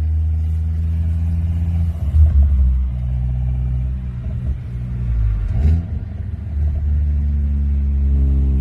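Car engine and exhaust droning steadily at a low pitch, with a brief louder swell about two seconds in and a short sharp burst a little before six seconds.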